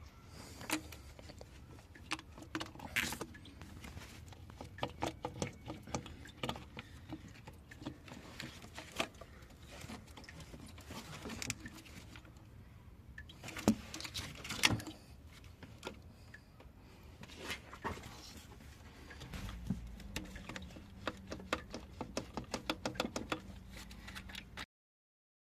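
Irregular clicks, taps and knocks of hand tools and small parts being handled during engine work, with a low steady hum joining about three-quarters of the way through. The sound cuts off abruptly near the end.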